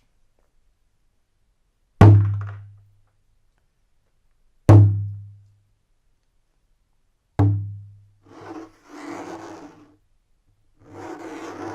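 Three hollow, low-ringing thunks from something struck, evenly spaced about two and a half seconds apart, each dying away within a second. Near the end come bursts of scraping or rubbing.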